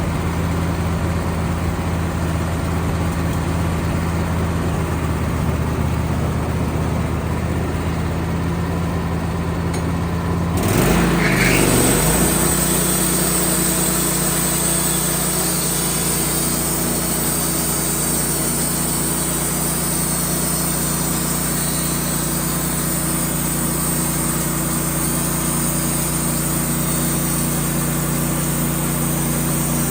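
Band sawmill's engine running steadily. About ten seconds in there is a short louder surge, after which the engine's note changes and a steady high whine joins it and holds.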